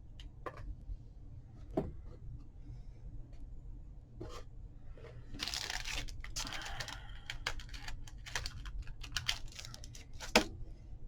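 Paper and small craft tools being handled on a tabletop: scattered light clicks and taps, a denser stretch of paper noise about halfway through, and one sharper tap near the end.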